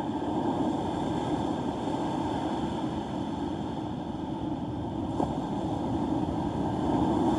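Steady rushing noise of wind across the microphone mixed with surf, with a faint click about five seconds in.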